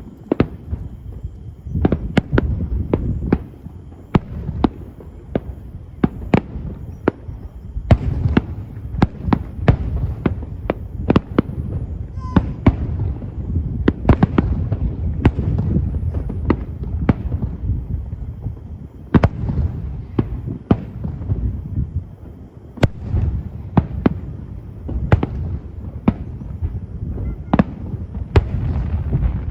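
Aerial fireworks shells bursting in quick succession: many sharp bangs, sometimes several a second, over a continuous low rumble of echoing booms.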